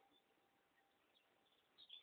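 Near silence with faint bird chirping, which picks up again just before the end.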